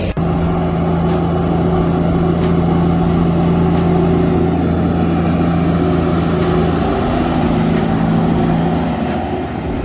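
Heavy truck's diesel engine running steadily, a loud low drone that holds its pitch.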